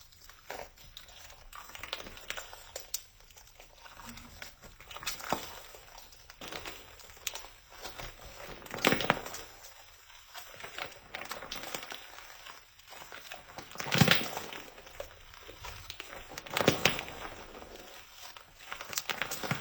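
Slime being pressed and worked by hand, making irregular small clicks and pops with a few louder ones spread through.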